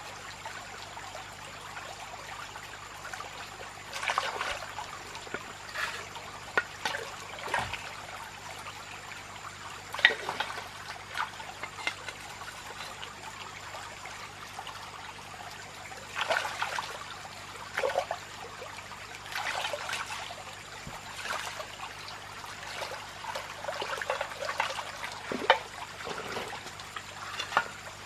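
Water trickling steadily, with short, sharper sounds every few seconds; the loudest come about ten seconds in and near the end.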